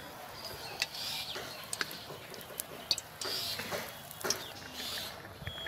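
Malpua batter deep-frying in hot oil in a wok: a steady sizzle, with several sharp clicks scattered through it.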